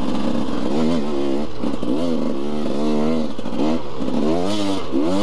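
KTM 300 EXC's single-cylinder two-stroke engine revving hard on a steep dirt hill climb, its pitch rising and falling about once a second as the throttle is worked.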